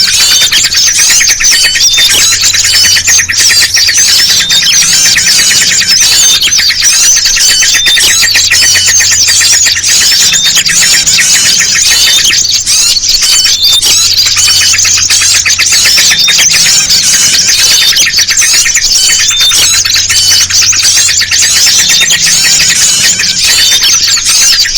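Loud, dense chorus of agitated small birds chirping and chattering nonstop: a bird-trapping lure recording mixing busy yellow-vented bulbul calls with the calls of other small songbirds.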